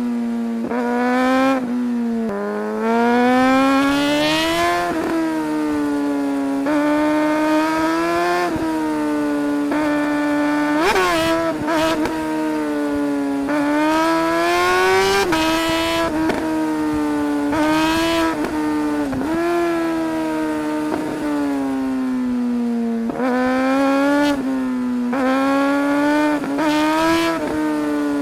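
Suzuki GSR 600's inline-four engine under hard acceleration, its pitch climbing with the revs and dropping sharply at each gear change, over and over.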